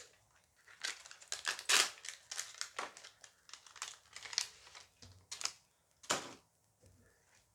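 Dice Masters booster pack's foil wrapper being torn open and crinkled in the hands: a dense run of crackling rustles lasting about five seconds.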